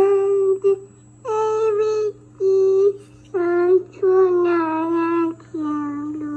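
A small child singing in drawn-out, high notes with short breaks between them, played back from an old cassette tape recording on a Samsung 'frog' cassette recorder, over a steady low hum.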